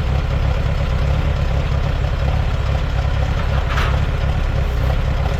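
1948 Allis-Chalmers C tractor's four-cylinder engine idling steadily, with a brief higher-pitched sound about four seconds in.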